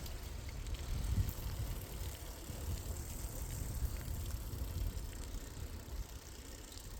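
Riding a bicycle in the rain: an uneven low rumble of wind buffeting the microphone over a steady hiss.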